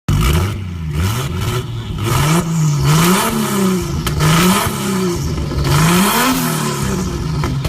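Car engine revved hard over and over, its pitch climbing and dropping about once a second. The sound cuts off suddenly at the end.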